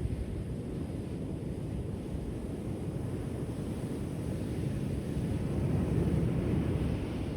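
Ocean surf washing onto a shore, a low steady noise of waves that builds to a swell about five to six seconds in and eases off near the end.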